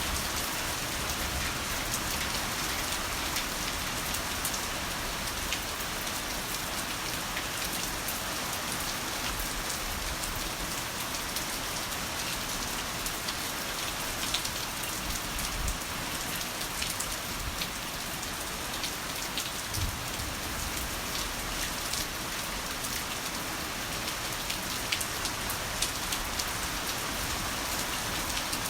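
Heavy rain falling steadily, a dense hiss with the patter of individual drops, and a few faint low rumbles.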